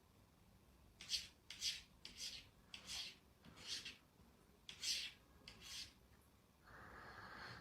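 A series of about eight soft rasping strokes, roughly two every second, followed near the end by a steady faint hiss.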